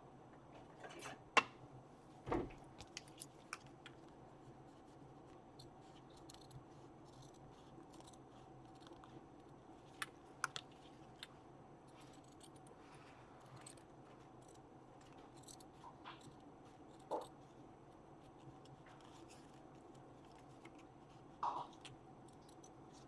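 Fabric scissors cutting through fabric, with quiet snips and rustling handling and a few light knocks.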